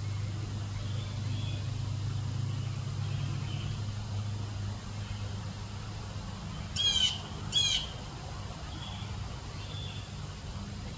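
A bird giving two loud, harsh warbling calls in quick succession about seven seconds in, with fainter short chirps before and after, over a steady low hum.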